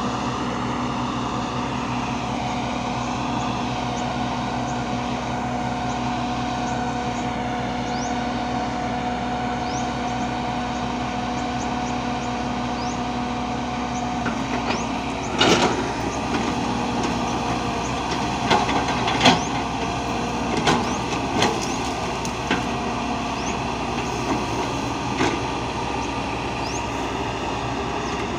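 A heavy machine's engine running steadily at an even pitch. From about halfway through, a run of sharp knocks and cracks at uneven intervals sounds over it.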